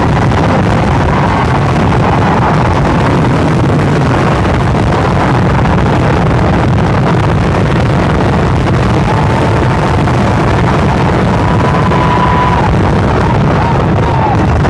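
A continuous rolling barrage of firecracker explosions, fired so fast that the bangs merge into one unbroken, overloaded roar. Thin whistling tones come through faintly in the second half.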